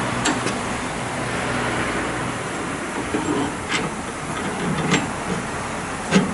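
A few short, sharp knocks over a steady mechanical hum.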